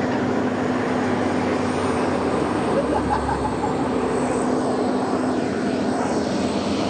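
Heavy diesel engine running steadily with a constant low hum.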